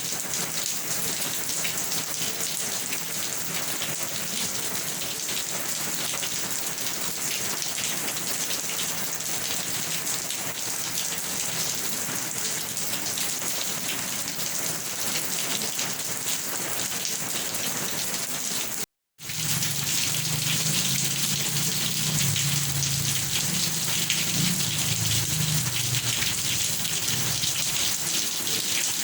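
Steady heavy rain falling and pattering on surfaces. The sound cuts out for an instant about two-thirds in, and a low rumble joins the rain for several seconds after it.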